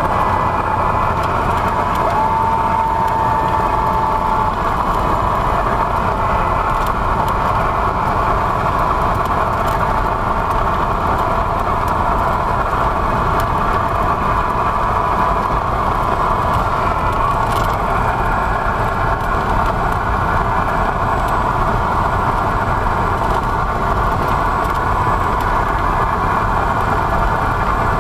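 Cessna 172's piston engine and propeller droning steadily, heard from inside the cabin, with a short thin steady tone about two seconds in.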